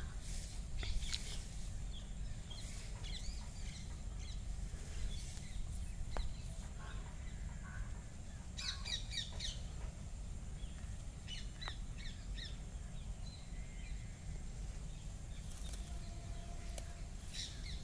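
Wild birds chirping and calling on and off, with a short run of rapid repeated chirps about halfway through, over a steady low rumble.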